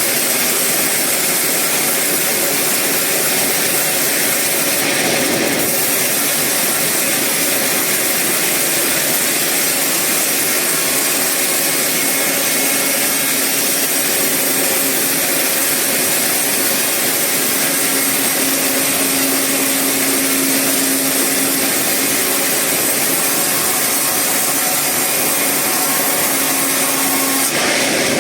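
Sawmill saw cutting through eucalyptus wood: a loud, steady noise with no let-up, with a faint held tone joining in about halfway through.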